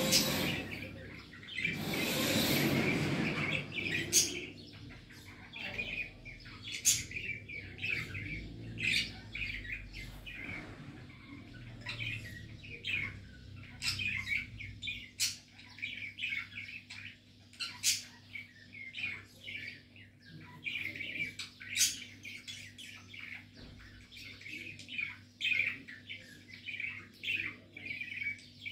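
Small birds chirping and twittering over and over, in short irregular calls. A louder burst of noise comes in the first few seconds.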